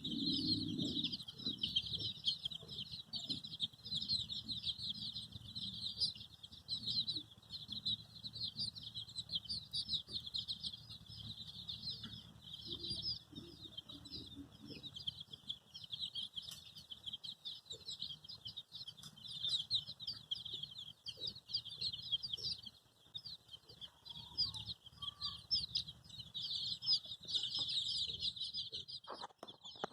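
A crowd of baby chicks peeping continuously: many short, high chirps overlapping without pause.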